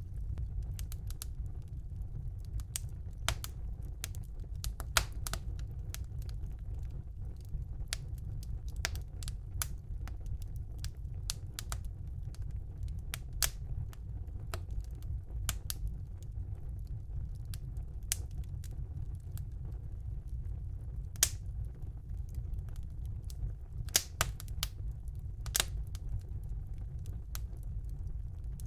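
Fire in a fireplace crackling: irregular sharp pops and snaps over a steady low rumble, with a handful of louder pops scattered through.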